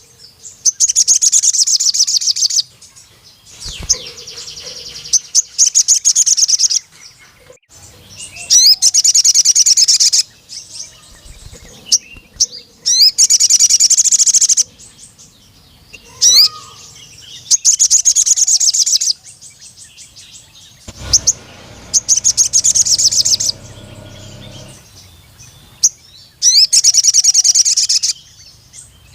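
Sogon sunbird singing: loud, high-pitched, rapid trilled phrases of one to two seconds each, repeated about every four seconds, with short chirps in between. A quieter low rumble runs briefly about three-quarters of the way through.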